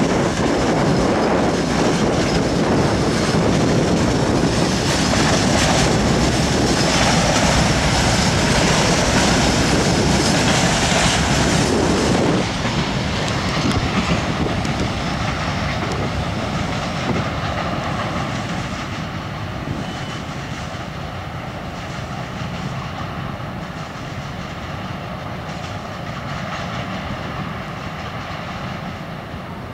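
Freight train wagons rolling past on the rails, loud for about the first twelve seconds, then dropping suddenly and fading as the train moves away.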